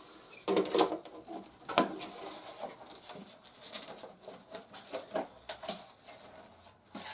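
Plastic wrap and packaging crinkling and rustling as a large toy part is unwrapped and handled, with irregular sharp crackles and light knocks. The loudest come about half a second to a second in and again near two seconds in.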